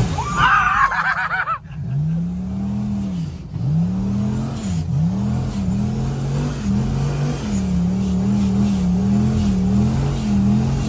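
Vehicle engine revving up and down over and over, its pitch rising and falling about once a second, as it labours through deep soft sand. A brief wavering high-pitched sound comes in the first second and a half.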